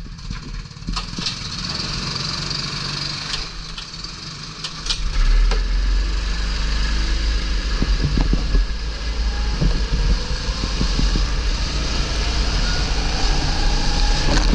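A 270cc kart engine pulling away about five seconds in, joined by a heavy rumble of wind and buffeting on the microphone. The engine pitch rises as the kart gathers speed in the second half.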